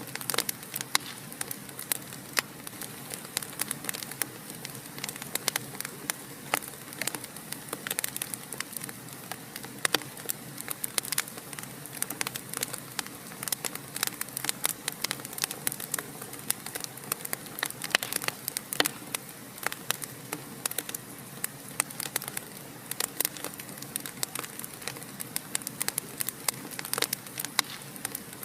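Wood fire crackling in a fireplace: a steady hiss with many irregular sharp pops and snaps, several each second.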